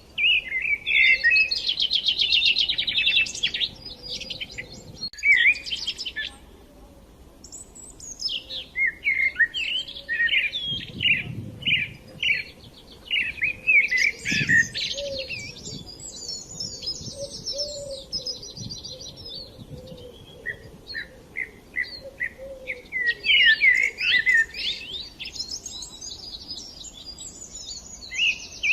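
Small songbirds chirping and singing, several calls overlapping, with quick trills and short repeated notes, and a brief lull about seven seconds in.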